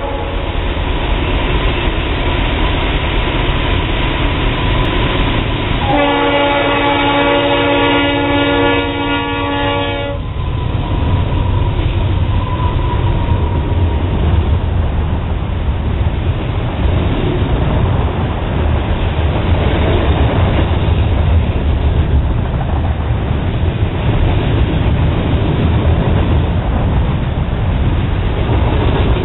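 Norfolk Southern freight train passing close by, led by a GE Dash 8-40CW diesel-electric locomotive. The locomotive's air horn sounds a chord of several tones for about four seconds, starting around six seconds in. After the horn, a long string of gondola cars rolls past with a steady low rumble and wheel clatter on the rails.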